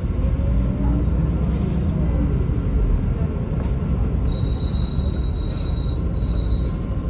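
Inside a MAZ-216 articulated city bus on the move: a steady low rumble of engine and road noise, with gliding tones from the drivetrain in the first couple of seconds. A thin, steady high whine joins about four seconds in.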